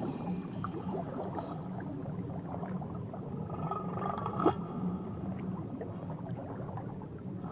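Underwater ambience with faint whale song, a pitched call rising into hearing around the middle, over steady crackling with scattered clicks; one sharper click about four and a half seconds in.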